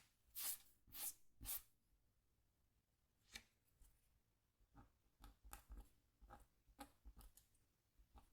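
A scratch tool scratching lines into the coating of a scratchboard: three quick strokes about half a second apart near the start, then lighter, scattered scratches.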